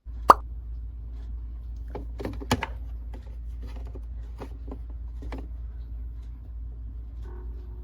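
Scattered light clicks and knocks, the sharpest about a third of a second in and another around two and a half seconds, over a steady low hum.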